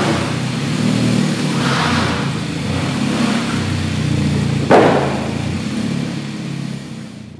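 Hyundai Avante Sport 1.6-litre turbocharged four-cylinder engine idling, its note swelling slightly a few times. A sharp bang about two-thirds of the way in, then the sound fades out.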